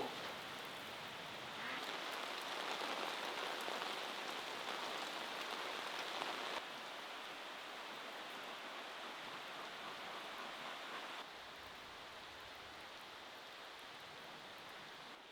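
Steady rain falling, an even hiss that jumps up in level about two seconds in, then drops in steps twice later.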